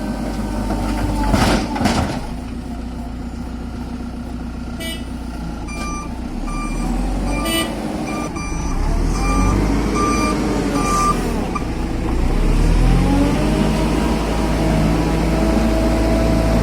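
Heavy diesel engine running and revving up and down, with a reversing alarm beeping repeatedly for several seconds in the middle. A couple of sharp knocks come near the start.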